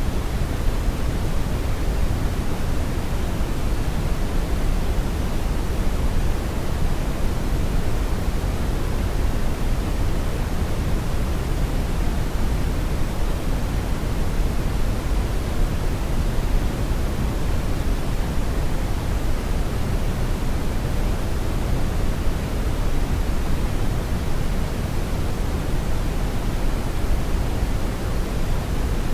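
Steady brown noise: an even, deep rushing hiss, strongest in the lows and falling off toward the highs, unchanging throughout.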